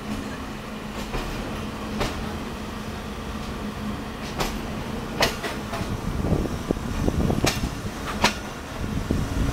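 Pakistan Railways passenger coach running slowly, heard from its open window: a steady low rumble with sharp clicks of the wheels over rail joints, often in pairs, every second or few. The running noise grows louder from about six seconds in.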